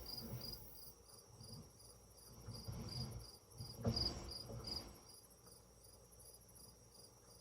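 Crickets chirping steadily, about two chirps a second. A low rumble swells in the middle, with a sudden thump about four seconds in.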